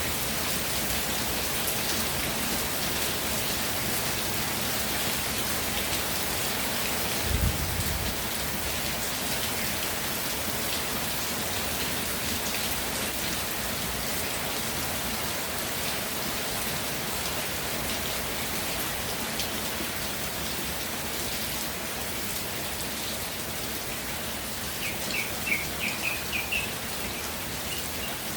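Steady rain falling. A brief low thump comes about a quarter of the way in, and a bird gives a quick run of short chirps near the end.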